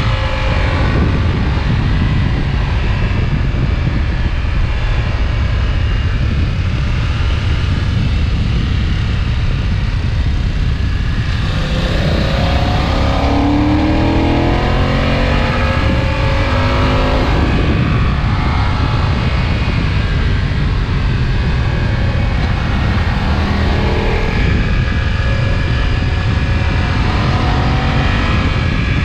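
BMW F900XR's 895 cc parallel-twin engine and exhaust under way, over heavy wind rush on the microphone. About twelve seconds in it accelerates, rising in pitch in steps through gear changes, and it rises again more briefly near the end.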